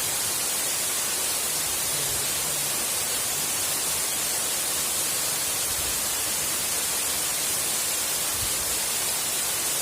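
Waterfall rushing, a steady even hiss of falling water with no change in level.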